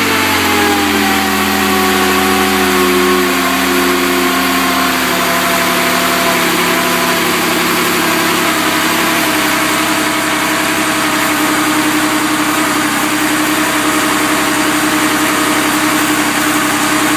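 Rebuilt 1982 Porsche 911SC's air-cooled 3.0-litre flat-six engine running, its revs falling slowly after being raised and settling to a steady idle about nine seconds in.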